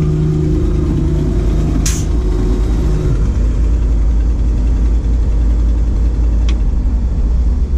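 Ford F700 truck's 370 V8 gasoline engine running steadily, with a humming tone that drops out about three seconds in. A sharp click about two seconds in, and a fainter one later.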